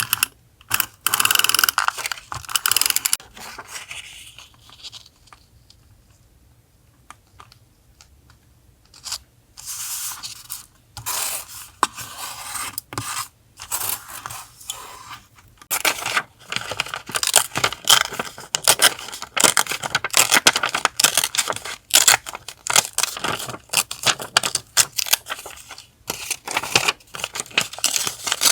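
Paper and sticker sheets being handled, peeled and torn: irregular crackling and rustling, with a quieter pause of several seconds after the first few seconds, then dense rustling again. A faint low hum runs underneath.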